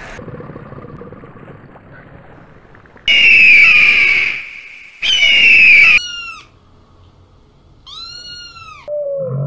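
A hawk screeches twice, long, high and falling, the loudest sounds here. Then a white kitten meows, once briefly and once longer with a rising-then-falling cry near the end. The first few seconds hold only a low hiss of underwater noise.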